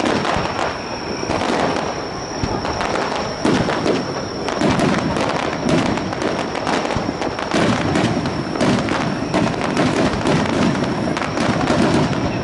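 Aerial fireworks going off in a dense barrage: many sharp bursts and crackles a second, with heavier booms through the second half.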